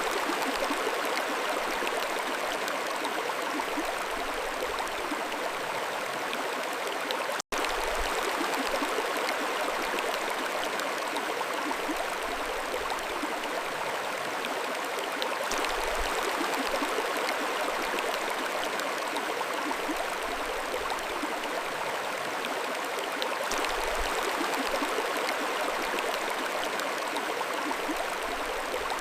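Mountain stream flowing steadily, an even rush of water over stones, with a momentary dropout about seven seconds in.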